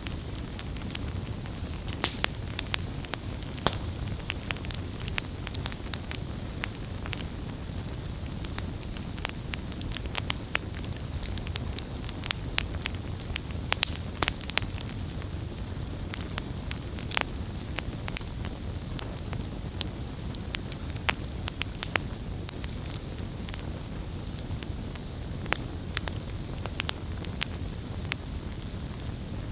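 Wood campfire crackling: frequent, irregular sharp pops and snaps over a steady low rumble of burning.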